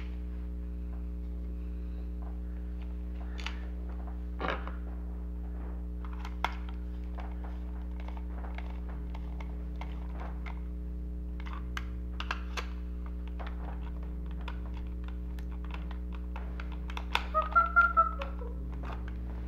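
Scattered light clicks and taps of the singing turkey toy's plastic parts being handled, over a steady electrical hum. A short run of loud pulsing tones comes near the end.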